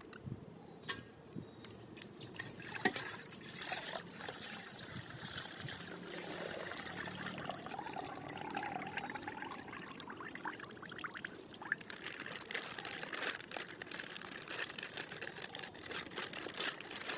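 Thin plastic wrapping rustling and crinkling as it is handled and pulled open, with many small crackles and clicks.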